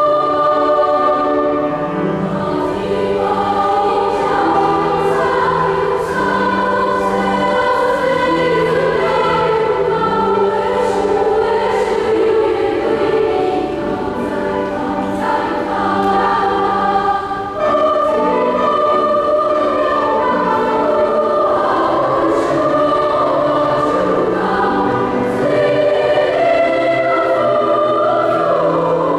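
A choir singing in sustained chords, with a brief break between phrases a little past halfway.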